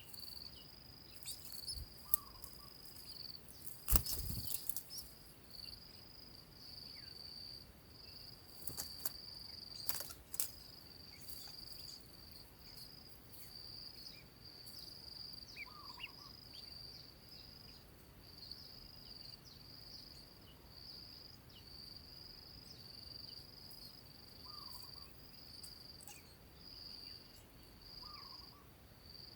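Insects trilling: a steady, high, pulsing chirr that runs on without a break. A few sharp knocks come around four and ten seconds in.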